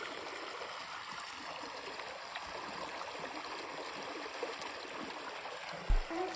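Steady rushing of flowing water from a small stream. Near the end, a loud low thump and a held note sound as music begins.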